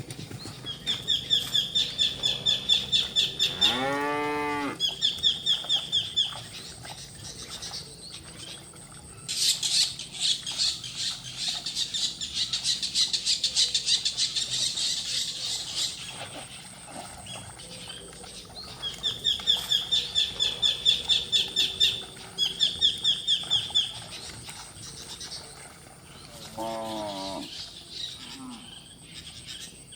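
Cattle mooing, two drawn-out calls that fall in pitch, about four seconds in and again near the end. Rapid trains of high chirping repeat around them and are the loudest sounds, with a long stretch of high buzzing in the middle.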